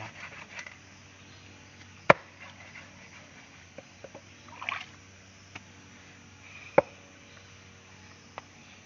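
Two sharp knife chops into an eel, about five seconds apart, with a few lighter knocks and scrapes between them.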